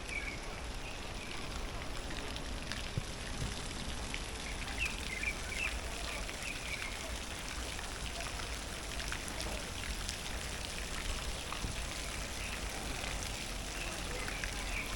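Outdoor garden ambience: a steady hiss of background noise scattered with small ticks and patters, with a few short, high bird chirps at the start, about five seconds in and near the end.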